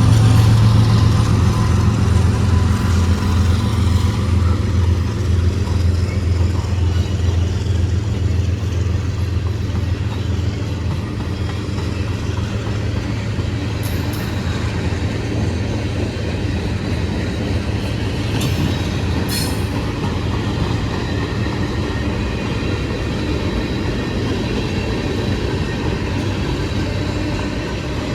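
CSX freight train rolling past, its cars rumbling steadily on the rails. A locomotive's low engine drone fades over the first several seconds. A couple of brief high wheel squeaks come about halfway through and again a few seconds later.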